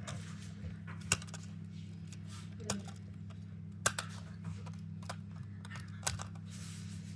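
Toy cars being handled, giving a few sharp, separate clicks and clacks as hard plastic and metal knock together or on a surface, over a steady low hum.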